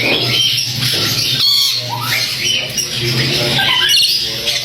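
Parrots squawking and chattering, a busy run of short calls that rise and fall in pitch.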